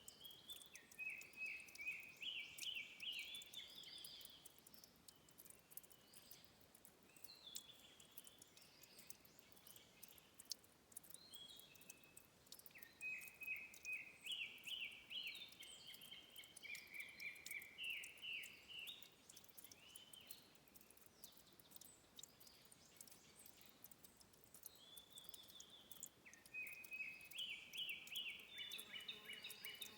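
Quiet bird song: bouts of quick chirping notes, a few seconds each, with pauses between, over a faint steady background hiss.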